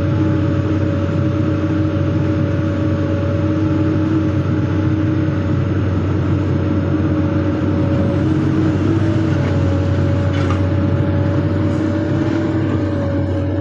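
Hydraulic excavator's diesel engine running steadily, a loud, even drone with a constant hum and whine.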